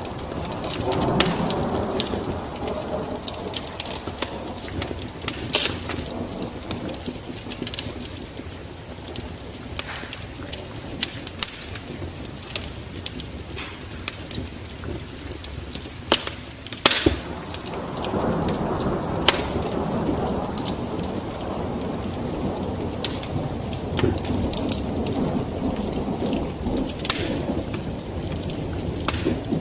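Wood fire crackling, with frequent sharp pops and snaps over a low rushing noise that swells in the first few seconds and again past the middle.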